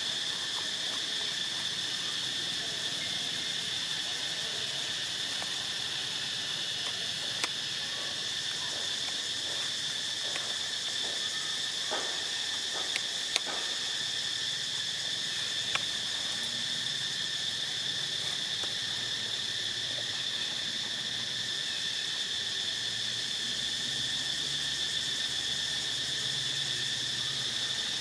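Steady, high-pitched drone of insects with two steady tones, with a few faint clicks in the middle.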